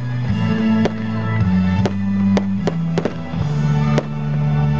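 Aerial fireworks bursting with about six sharp bangs, over music with sustained low notes that change about once a second.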